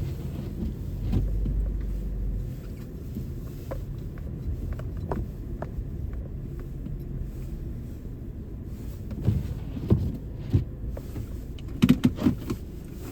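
Inside a car: low engine and cabin rumble, heavier for the first couple of seconds and then settling. Scattered small clicks run through it, with a few louder knocks and thumps near the end.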